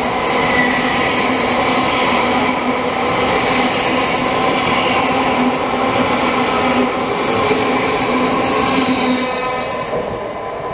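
LNER Azuma high-speed multiple-unit train passing slowly through the station without stopping: a steady rumble of wheels on rail with a continuous traction hum, easing off as the last coach goes by near the end.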